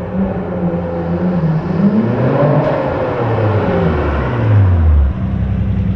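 Nissan Skyline R32 GT-R's twin-turbo RB26 straight-six engine doing a first-gear pull. The revs climb to a peak about two and a half seconds in, then fall away and settle back to idle about five seconds in.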